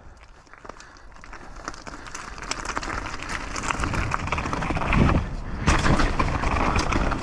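Mountain bike descending a dirt trail: tyre noise, wind on the microphone and many small clattering knocks from the bike, getting steadily louder as it picks up speed, with a couple of heavier thumps about five seconds in.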